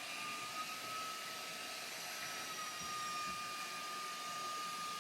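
A household electric appliance's motor running with a steady high whine over a hiss, having just spun up as the power came back on after an outage.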